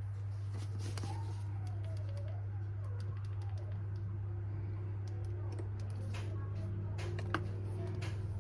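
Scattered clicks and crinkles of packing material being handled, more frequent in the second half with one sharper click near the end, over a steady low electrical hum.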